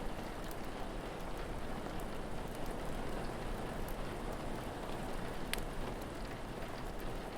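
Steady rain falling, with a few sharp crackles from a wood fire, the loudest about five and a half seconds in.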